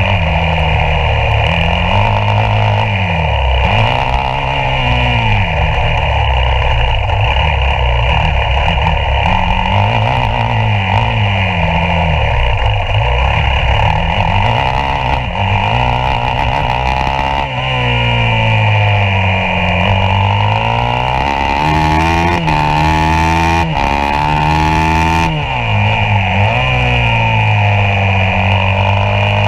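Yamaha YZ450F's single-cylinder four-stroke engine heard onboard at race pace, its pitch rising and falling again and again as the throttle is opened and closed through the corners, with longer hard climbs in revs toward the end.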